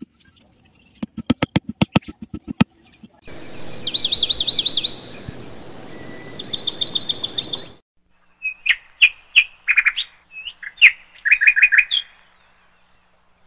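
A quick run of light hammer taps on a small wooden stake, then birds chirping: two bursts of fast high trills over a steady hiss, followed by a scatter of short chirps.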